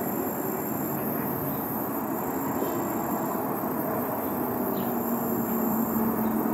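Jet engine noise from a Boeing 737-800's CFM56-7B turbofans: a steady roar, with a low tone growing a little stronger and higher from about five seconds in.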